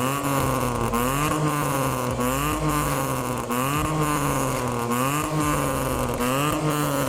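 Mitsubishi Mirage's three-cylinder engine running through a full Borla exhaust at held revs, a steady exhaust drone whose pitch swells up and down about every second and a bit.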